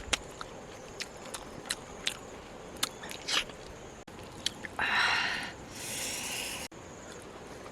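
A person chewing and biting food, with many small wet mouth clicks. About five seconds in there is a longer hiss-like noise lasting nearly two seconds.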